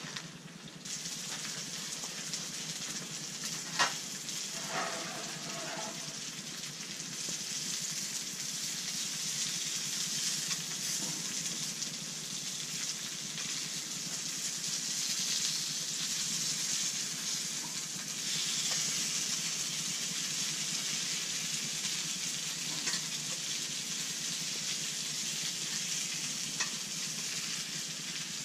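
Perch fillets sizzling in a copper pan on a small propane camp stove. The steady hiss begins about a second in and grows louder after several seconds. A few sharp clicks and a short scrape come from a utensil moving the fillets in the pan, the loudest click about four seconds in.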